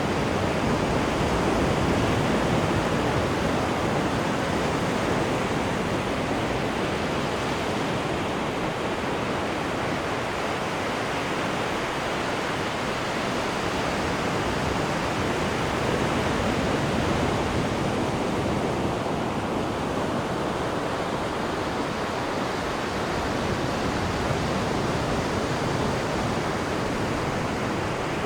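Water rushing and churning in a cruise ship's wake behind the stern: a steady, unbroken rush.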